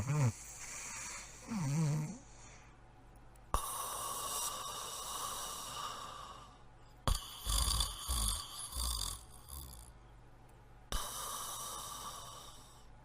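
Cartoon snoring: a short wavering voiced snore about two seconds in, then three long hissing snores that each start abruptly, about 3.5, 7 and 11 seconds in, and fade away; the middle one has a low rumble through it.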